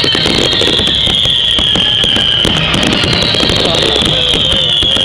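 Fireworks display: dense crackling bursts over a high whistle that slides slowly downward, twice.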